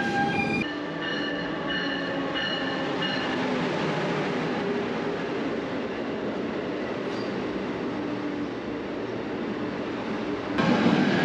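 Bernina Express train of the Rhaetian Railway running on the rails: a steady rumble of wheels and carriages, with a faint high whine for a couple of seconds near the start, becoming louder near the end.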